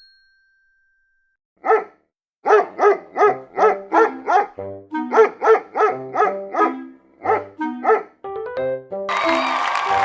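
A dog barking in a quick, steady run of about three barks a second over light background music, after one lone bark. The music swells near the end.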